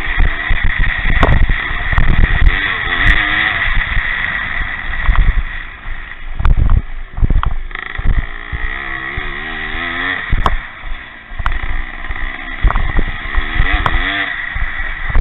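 Pre-1965 motocross motorcycles racing, their engines revving up and down as they go round the track.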